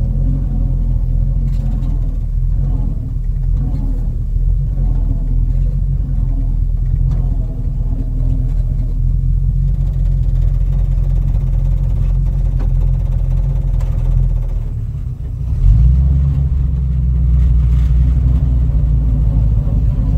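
1952 Ford F3 pickup's flathead V8 running while the truck is driven: a steady low rumble. About fifteen seconds in it dips briefly, then comes back louder and deeper.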